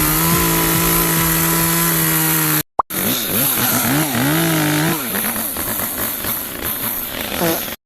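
RYOBI ES-3035 electric chainsaw running with a steady motor whine. It breaks off for a moment about three seconds in. When it comes back its pitch dips and recovers several times, as under load, before it stops abruptly near the end.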